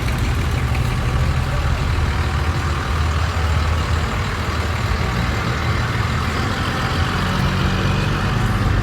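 A motor vehicle's engine running steadily, a continuous low rumble over a constant background hiss.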